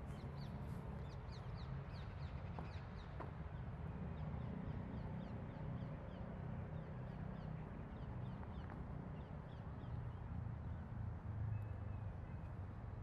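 Small birds chirping: a run of quick, high, falling chirps for the first ten seconds or so, over a steady low rumble.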